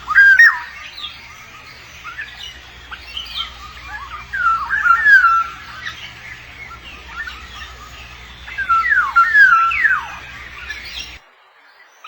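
Black-naped oriole calling in three bursts of sliding, whistled notes, a few seconds apart.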